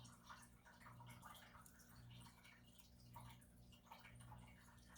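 Near silence: a faint steady low hum, swelling slightly and evenly, with scattered soft ticks.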